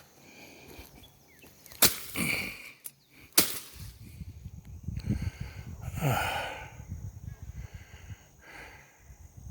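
A hawk calling again and again, with cries that fall in pitch. Two sharp knocks, the loudest sounds, come about two and three and a half seconds in, and a low rumble runs from about halfway through.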